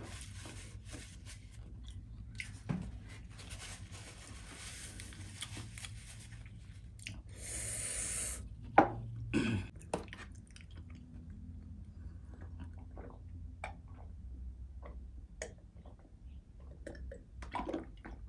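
A person chewing food close to the microphone, with small crunches and wet mouth sounds. A brief rustle comes about seven seconds in, and the loudest sound, a sharp knock followed by two smaller ones, comes about nine seconds in.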